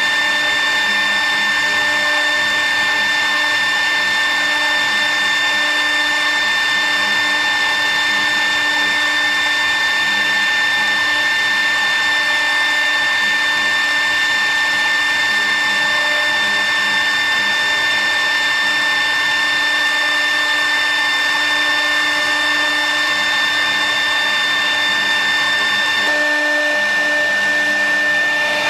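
An electric motor-driven machine running steadily with a high whine. About 26 seconds in, its pitch pattern shifts slightly.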